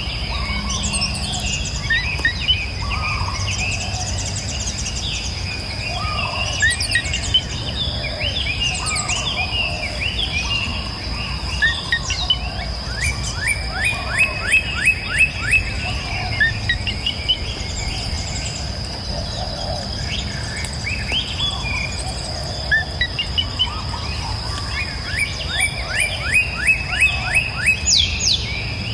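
Several songbirds chirping and singing in a mixed chorus, with two runs of fast repeated chirps, one about halfway through and one near the end. A steady high thin tone, like an insect's drone, runs underneath with a low steady rumble.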